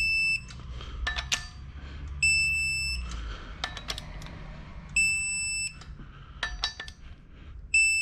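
An electronic alarm beeping: a high, steady beep about 0.7 s long, repeated four times roughly every three seconds. Between the beeps, sharp ringing metal clinks, like tools being handled.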